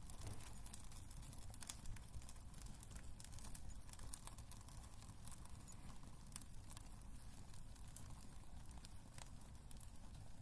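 Wood fire burning in a fireplace: a low steady rumble with scattered small pops and crackles of the burning logs.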